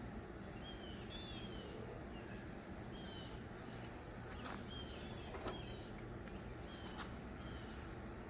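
A bird calling in short, repeated chirps over a steady low background noise, with a few faint clicks in the second half.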